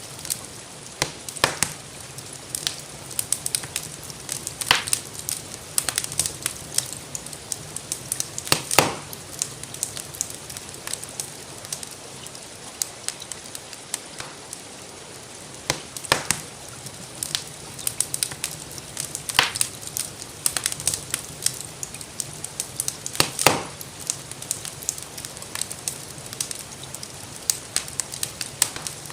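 Wood fire crackling with many small pops and a louder snap every few seconds, over a steady hiss of gentle rainfall.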